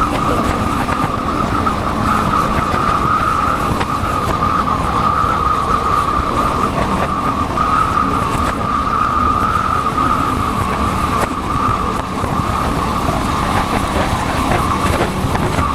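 Motorcycle running steadily at road speed, heard through a helmet-mounted microphone: a steady whine over dense wind rush and engine rumble, with a brief easing near the end.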